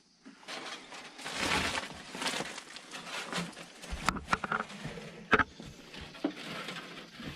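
Rustling and crunching of footsteps over dry ground and debris, with a few sharp snaps or clicks.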